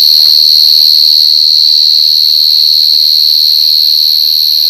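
A cricket singing at very close range: one loud, unbroken, high-pitched trill that cuts off suddenly at the very end.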